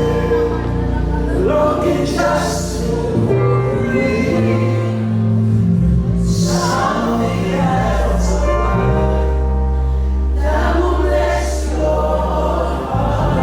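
Live gospel worship music: a group of voices singing over a sustained instrumental backing with deep held bass notes.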